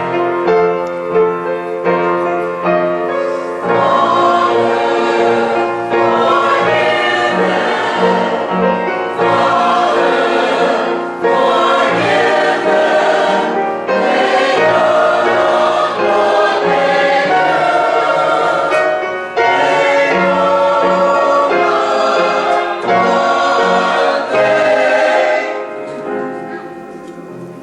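Choir singing a number from a church cantata, coming in fully a few seconds in after a quieter opening and fading away near the end.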